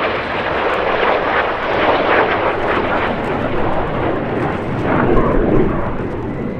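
BAE Hawk T1 jet trainers flying past, their Rolls-Royce Adour turbofans giving a loud, steady jet rush that swells twice, about two and about five seconds in.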